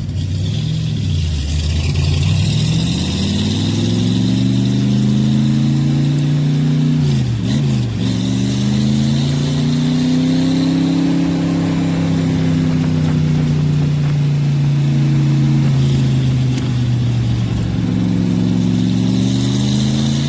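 Shelby Cobra 427 V8 engine running under load: its note climbs over the first few seconds, drops sharply about seven seconds in as if shifting, then climbs again and holds steady, with a short dip near the end.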